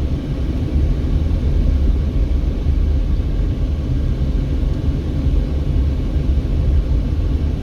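Car driving slowly along a town street: a steady low rumble of engine and road noise.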